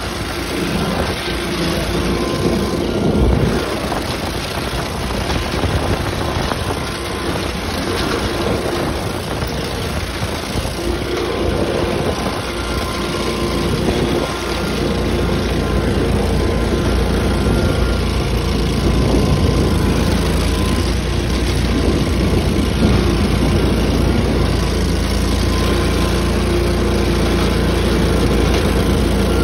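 Tractor engine running steadily, growing a little louder about halfway through.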